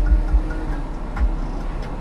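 Car noise as picked up by a dashcam, a heavy uneven low rumble with faint music under it.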